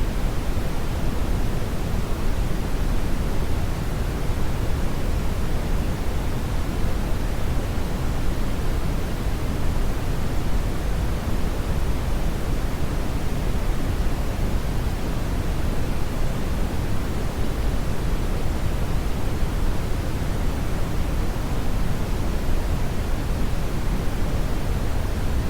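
Steady, loud brown noise: an even rushing hiss, heaviest in the deep bass and falling away toward the treble, with no change.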